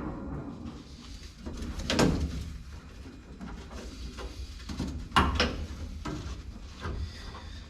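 Clunks and light rattling of metal parts being worked on inside a car door, with a louder knock about two seconds in and another about five seconds in.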